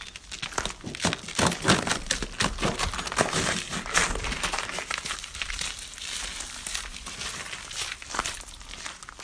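Dense crackling rustle of dry material being disturbed, loudest in the first half.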